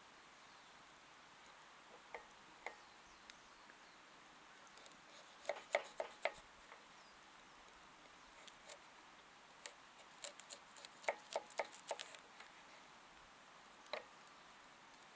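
Scattered light clicks and taps, bunched about five to six seconds in and again about ten to twelve seconds in, against a quiet background.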